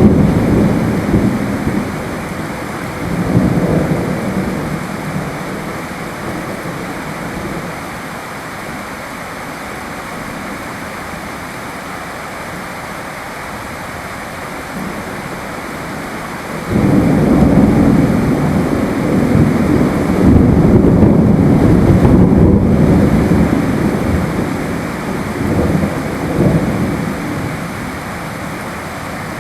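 Steady rain with rolling thunder: a rumble over the first few seconds, then a longer, louder one that starts a little past halfway and dies away over about ten seconds.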